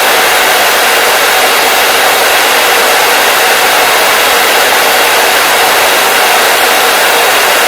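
Hair dryer running continuously at a steady speed, a loud, even rush of air and motor with no change in pitch.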